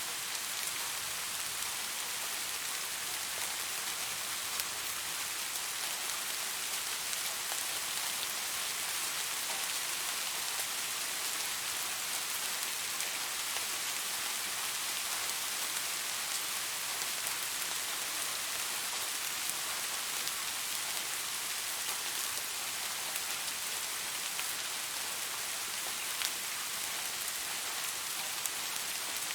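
Steady rain falling in an even, dense hiss, with occasional single drops ticking through it.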